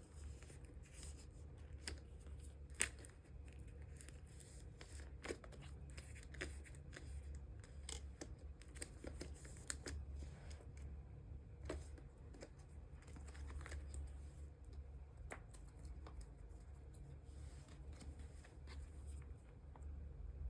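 Photocards and clear plastic sleeves being handled: irregular small clicks, taps and plastic rustles as cards are slid into sleeves, with a sharper click about three seconds in and again about ten seconds in. A low steady hum runs underneath.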